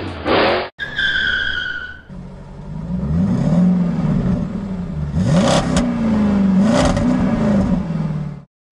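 Cartoon car engine sound effect revving up and down for several seconds, the pitch rising and falling repeatedly, with a couple of sharp clicks, cutting off abruptly near the end. It is preceded by a brief loud noisy burst and a short, slightly falling high tone.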